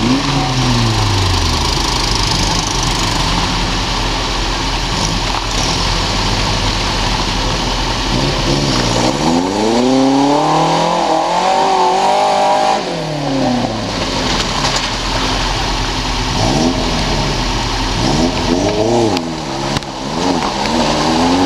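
Off-road buggy engine revving hard as it is driven, its pitch rising and falling again and again. There is one long climb about halfway through, held for a few seconds before it drops away, then several shorter revs near the end.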